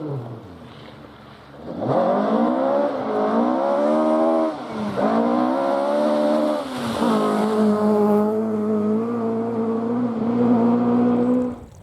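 Rally car engine at full throttle, approaching and getting louder, its pitch climbing through the gears with two short drops for gear changes. The note then holds high and steady and cuts off suddenly near the end.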